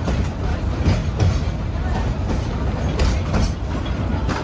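Narrow-gauge train coach rolling along the track: a steady low rumble with a few irregular clicks of the wheels over rail joints.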